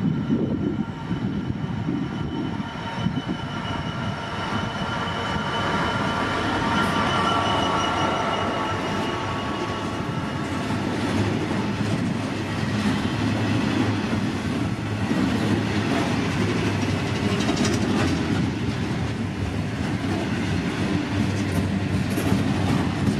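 Freight train passing, its wheels running steadily over the rails. A few thin, high ringing tones in the first half fade out.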